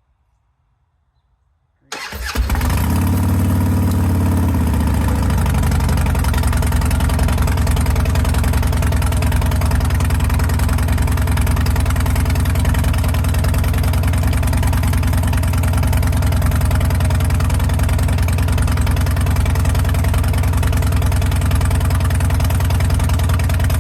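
Motorcycle engine, jump-started from a dead battery with a portable jump starter pack, fires up about two seconds in. Its revs settle over the next few seconds into a steady idle.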